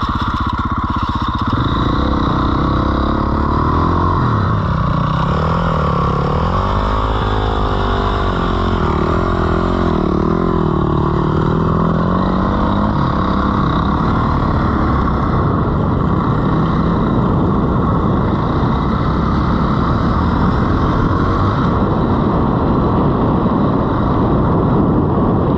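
Dirt bike engine running and revving up and down through the first half, then holding steadier, over a constant low rumble.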